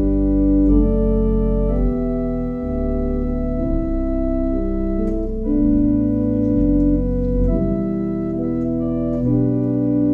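Organ playing slow sustained chords over a deep bass line, the chords changing every second or two.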